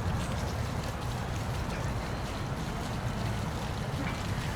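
Steady rushing of a park waterfall, an even wash of falling water with a deep low rumble underneath.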